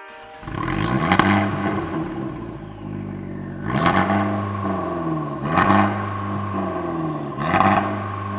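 Turbocharged car engine revved in four short blips, dropping back to a steady run between them.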